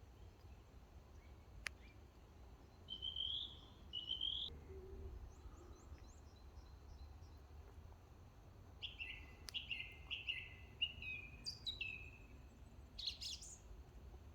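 Woodland birds singing: two short chirping phrases a few seconds in, then a longer run of short falling notes near the end, over a low steady background rumble.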